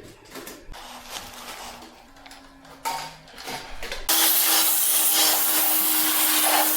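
Light scrubbing and clicks, then about four seconds in a high-pressure washer starts spraying abruptly: a loud steady hiss of water over a steady motor hum, as greasy air-conditioner parts are washed.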